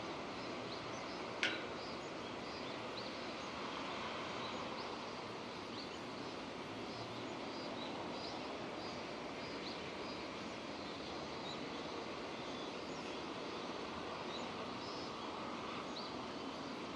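Steady rain falling, an even hiss, with scattered short high chirps through it and one sharp tick about a second and a half in.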